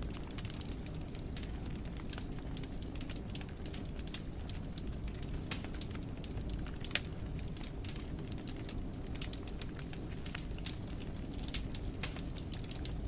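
Wood fire burning in a fireplace: a steady low rumble with frequent irregular crackles and pops, a louder pop about seven seconds in and a cluster near the end.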